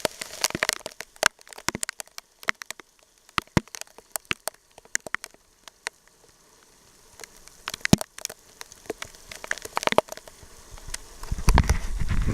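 Large raindrops striking the car's roof and windshield as separate sharp ticks and taps, sparse in the middle and growing thicker toward the end. A deep rumble swells about eleven seconds in.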